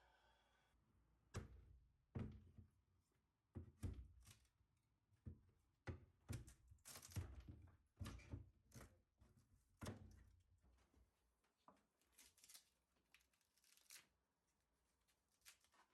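Faint irregular knocks, thuds and short scrapes from demolition work tearing out a boat's wooden dashboard, about a dozen strokes spread unevenly.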